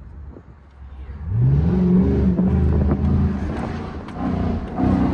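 Chrysler 300C with a freshly fitted aftermarket exhaust, the engine revved. About a second in, a rising rev holds loud, then eases and comes back up in a second blip near the end.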